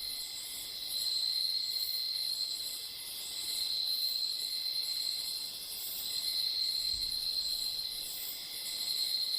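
Night-time tropical rainforest insect chorus: a steady high trill that swells and fades every few seconds, with a fainter pulsing shimmer above it.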